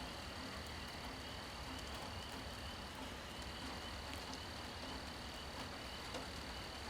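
Steady rain falling at night, with scattered drop ticks, under insects trilling: one continuous high trill that drops out briefly about three seconds in, and a fainter pulsing chirp below it.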